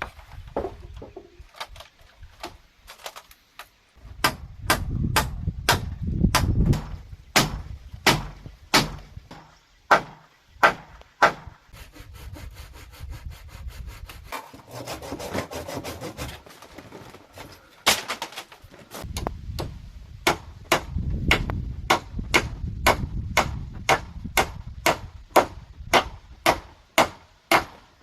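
Bamboo being cut by hand in steady repeated strokes, about two a second, with a softer, more even stretch in the middle.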